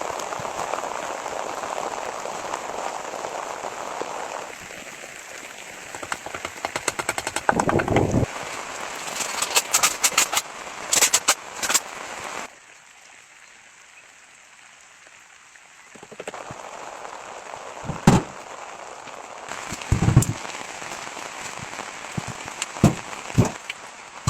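Rain hissing, then dense crackling and sharp pops from a burning wood fire. About halfway the sound drops abruptly to a quieter background, with a few loud single pops after that.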